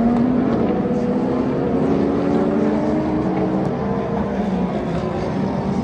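Several race car engines running together on the circuit, their overlapping engine notes slowly rising and falling as the cars accelerate and lift.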